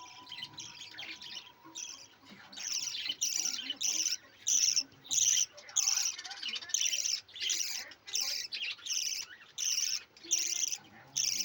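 Budgerigars chirping and chattering: short bursts of high, scratchy calls that repeat about once or twice a second with brief gaps between.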